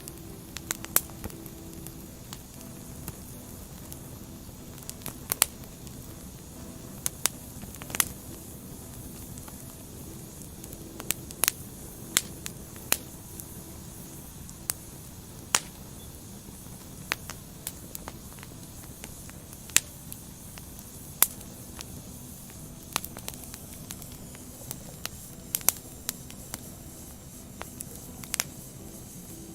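Wood fire burning: a steady soft hiss broken by irregular sharp pops and crackles of burning logs, a few of them much louder than the rest.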